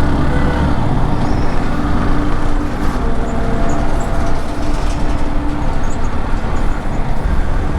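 Motorcycle riding at highway speed: loud, steady engine and road noise, with a held tone that fades out a little after the middle.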